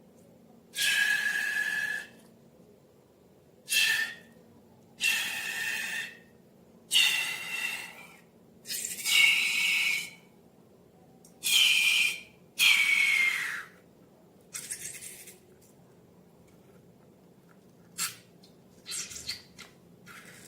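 Air rushing out of a balloon's neck in about eight separate hissing squeals, each with a steady whistling tone, some bending downward at the end. A few short sharp clicks follow near the end.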